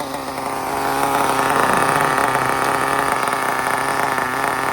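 Single-cylinder two-stroke RB CE nitro engine in an RC car running at a steady speed with a high buzzing note, growing louder about a second in. The owner hears it as a little leaner on the low end than at the top.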